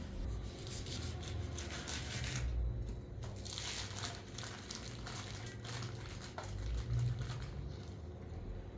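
Irregular crinkling and rustling handling noises over a low rumble.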